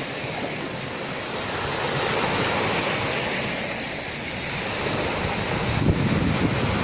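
Sea surf washing in steadily, swelling about two seconds in and again near the end as waves break.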